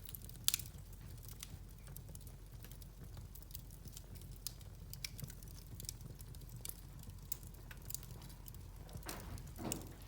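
Wood fire crackling in a fireplace: irregular sharp pops and snaps, one louder pop about half a second in, over a steady low hum, with a brief louder rush near the end.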